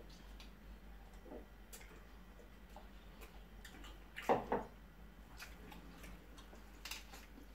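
Close-up eating sounds of people chewing chicken and rice with their hands: soft, scattered clicks of chewing and lip smacking, with one louder smack or gulp a little over four seconds in.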